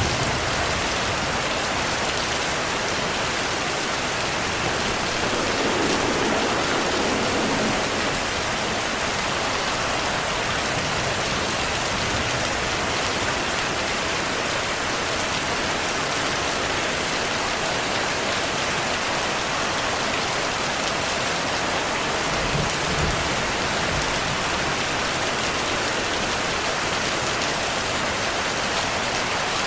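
Heavy rain falling steadily, a dense even hiss of drops on surfaces. Low rumbles of distant thunder swell in twice, once early and once past the middle.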